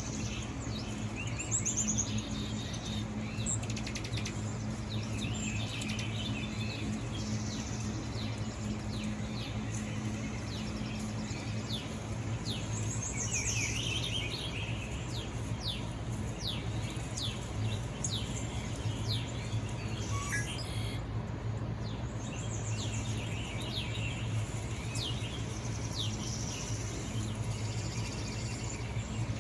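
Birdsong from a nature video playing through a phone's speaker: many quick, downward-sweeping chirps over a steady low hum.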